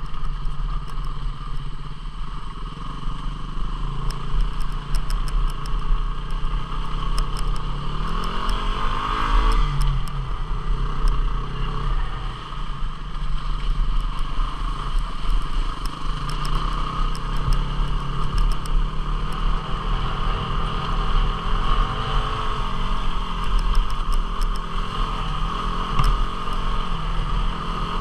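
A 250 cc single-cylinder four-stroke dual-sport motorcycle engine running on a trail ride. Its revs climb about eight seconds in and ease off again about two seconds later, over a constant low rumble with scattered small clicks and rattles.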